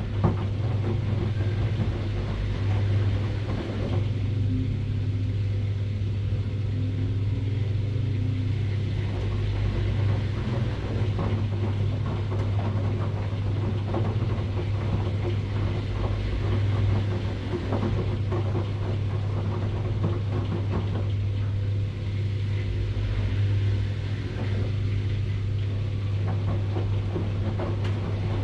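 Washing machine running: a steady low hum with faint, irregular clicks over it.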